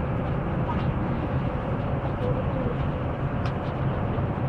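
Airliner cabin air conditioning running on the ground: a steady rush of air and a low hum, with a constant mid-pitched whine.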